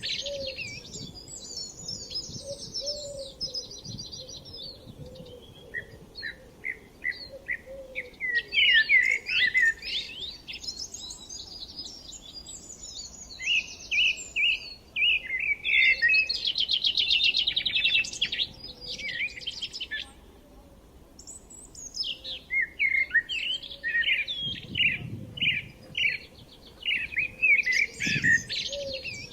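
Several songbirds singing and chirping at once, in overlapping phrases of quick high notes. There is a fast trill around the middle and a short lull about two-thirds of the way through.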